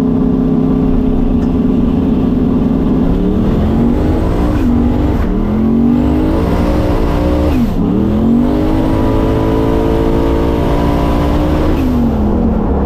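Drag car engine running at full throttle, its pitch climbing in repeated sweeps with sudden drops between them, about four and eight seconds in, then falling off as the throttle closes near the end.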